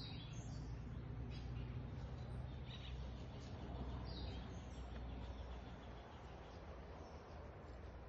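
Faint forest ambience: several short, high bird chirps in the first half over a steady low rumble on the microphone.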